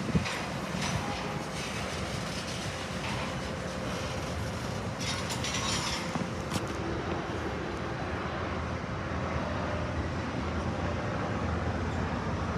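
Train moving on the rails, a steady rumble with a sharp knock right at the start and a brief hiss about five seconds in.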